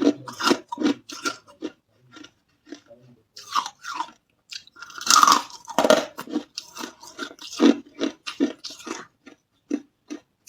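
Hard carbonated ice being bitten and chewed close to the microphone: irregular sharp crunches with short pauses between them, the densest and loudest crunching about halfway through.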